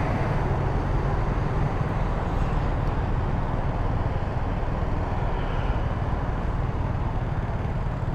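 Steady running of a 150cc GY6 scooter engine, idling at a stop, with road traffic noise around it. No revving or change in pitch.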